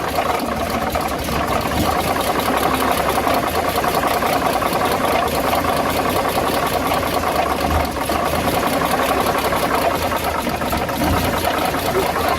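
Dodge WC52's flathead six-cylinder engine running steadily with a fine, rapid clatter in its sound. The owner is chasing a clacking, rubbing noise from the engine that shows most on deceleration.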